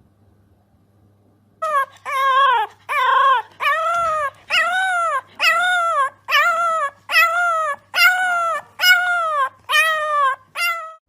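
An animal crying over and over: about a dozen high calls, each under a second and rising then falling in pitch, evenly spaced, starting a little under two seconds in.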